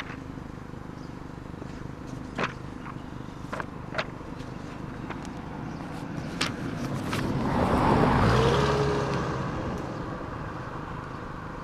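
A car drives past, its engine and tyre noise swelling to a peak about eight seconds in and then fading away. A few short sharp knocks come before it.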